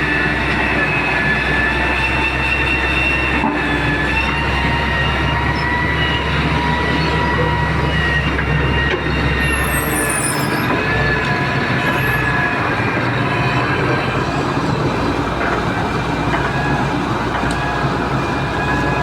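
Heavy-duty excavator running: a steady low engine rumble under a held, high-pitched metallic whine of several tones.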